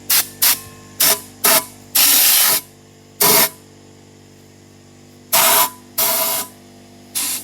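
Short, uneven bursts of spraying hiss, about nine of them, mostly brief with two or three lasting around half a second, over a steady low hum.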